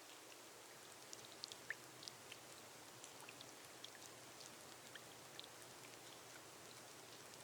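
Light rain on a glass roof: a faint steady hiss with scattered single drops ticking, a few of them louder, about two seconds in.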